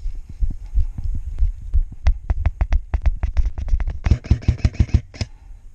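Airsoft rifle firing a string of shots close to the microphone, each a sharp crack with a low thump, quickening into a rapid burst about four seconds in.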